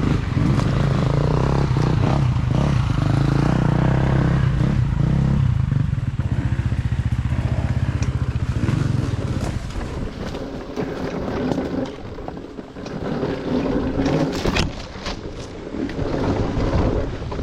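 Dirt bike engine running steadily for about the first ten seconds, then quieter and uneven, with scattered knocks and scrapes over rough trail.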